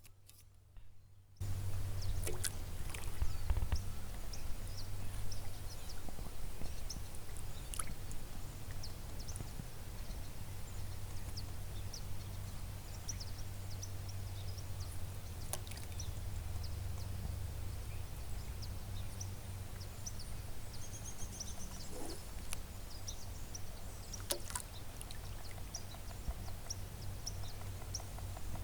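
Water trickling and splashing around a paddleboard as the paddle dips, over a steady low hum of wind on the microphone, with scattered small clicks and a few faint bird chirps.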